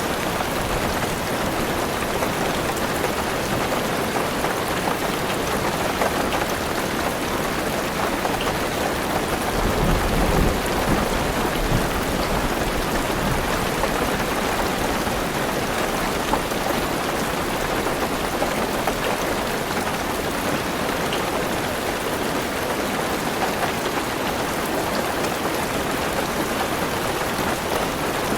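Heavy rain drumming steadily on a car roof and windows, heard from inside the car, with a low rumble of thunder swelling from about ten seconds in and fading about two seconds later.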